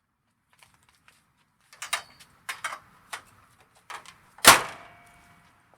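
Several clicks and knocks, then one loud slam about four and a half seconds in that rings briefly with a metallic tone before fading.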